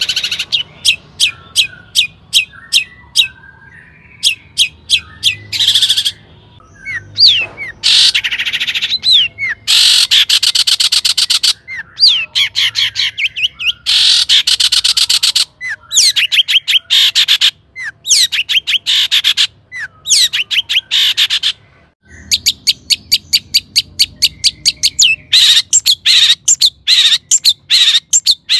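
Long-tailed shrike singing loudly: rapid runs of sharp repeated notes alternating with dense, harsh chattering bursts, broken by a few brief pauses.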